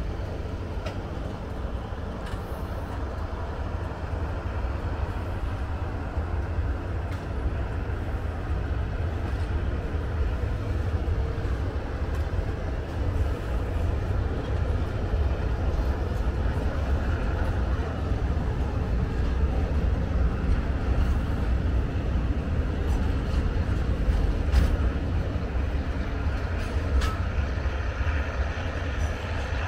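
Container flatcars of a freight train rolling past on the rails: a steady low rumble of wheels on track, with scattered sharp clicks and knocks.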